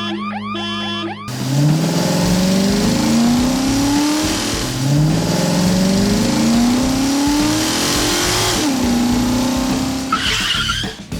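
Motor vehicle engine accelerating: its pitch climbs in several rising sweeps, as if shifting up through the gears, then drops and holds a steady note. A short high screech comes near the end, and music plays briefly at the start.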